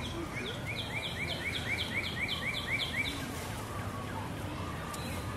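A songbird sings a fast series of about a dozen repeated down-slurred whistled notes, about four a second, that stops after about three seconds, over a steady background hum.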